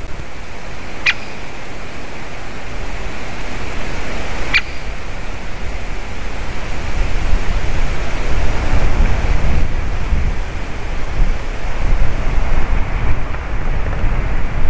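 Wind rushing and buffeting the microphone, with the low rumble growing stronger about halfway through. Two short, sharp bird calls come about a second in and again about four and a half seconds in.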